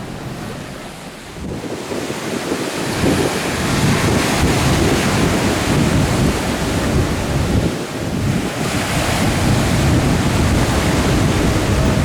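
Wind buffeting the microphone: a rushing, gusty noise that grows louder about three seconds in and briefly eases near eight seconds.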